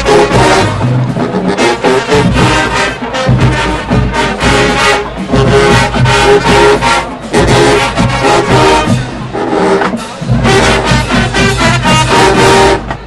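Marching band playing loudly, with massed brass (trombones and trumpets) over driving drums. The brass cuts off right at the end.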